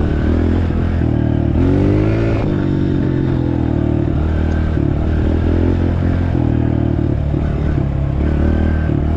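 Dirt bike engine running as it is ridden along a trail, revving up briefly about two seconds in.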